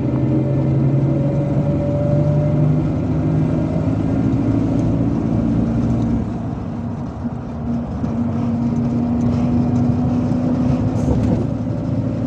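Cabin noise of a MAZ-257 bus under way: steady engine drone with road noise. The loudness dips briefly about seven seconds in, then the engine runs steady again.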